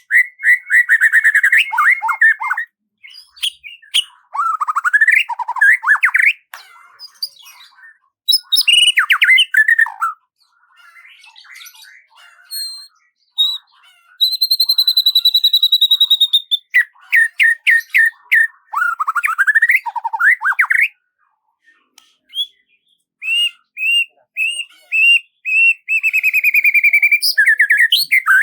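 Songbirds singing: rapid runs of repeated chirps, slurred warbled phrases and a long clear whistle about halfway through, with short pauses between phrases.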